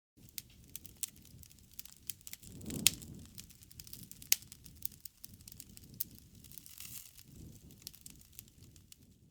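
Wood fire crackling: a steady run of sharp pops and snaps over a soft low rumble of the flames, with two louder pops about three and four seconds in.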